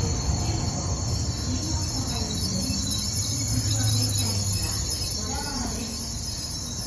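An N700A Shinkansen train running past and away along the track: a low rumble of wheels and running gear that swells about four seconds in as the tail end goes by, then fades.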